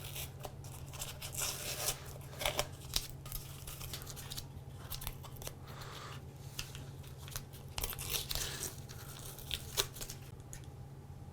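Irregular rustling, scraping and light clicks of hands working with material, over a steady low hum.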